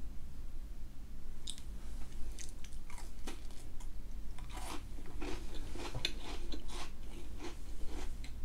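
A person biting into and chewing a Twix Top, a chocolate-topped shortbread biscuit bar, with irregular crisp crunches of the biscuit.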